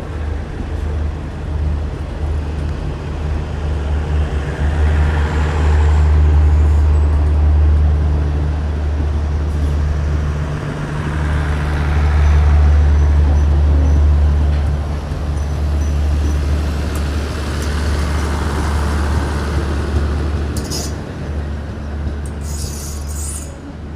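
Diesel train engine running, a loud low rumble that swells and eases a few times, dropping off near the end.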